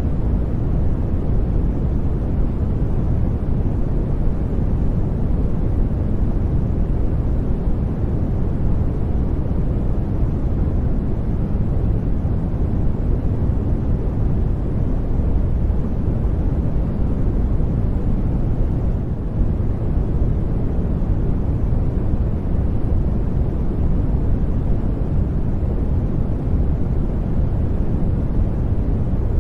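Steady generated noise for sleep, an even, unbroken rush that is deep and full in the low end with little high hiss.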